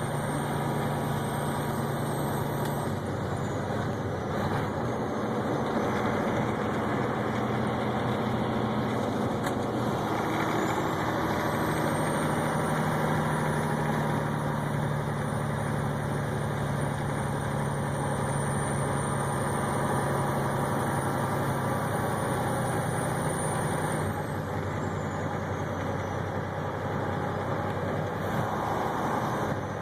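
Vehicle engine and road noise heard from inside the cab while driving, steady throughout, with a faint high whine that rises about ten seconds in and falls away near the end.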